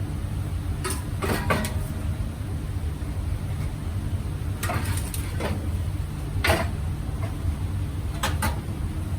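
Scattered metal clanks and knocks, about eight of them, from work on a car's exhaust and muffler, over a steady low hum.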